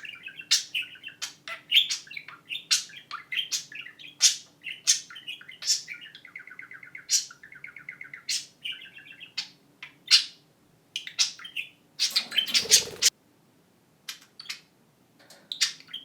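Pet budgerigars warbling and chattering, a rapid running twitter broken by many sharp, high chirps. The chatter thins out with short pauses late on, and a harsher, noisier squawk-like burst comes about twelve seconds in.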